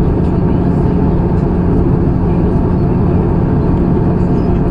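Steady cabin noise of an Airbus A320-214 in flight: an even rumble of engines and airflow, with a constant low hum.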